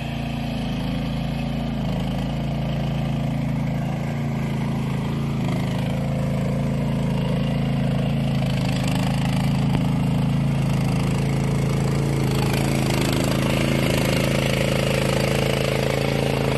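Mini skid steer loader's engine running at a steady speed. In the last few seconds a harsher, higher noise joins it.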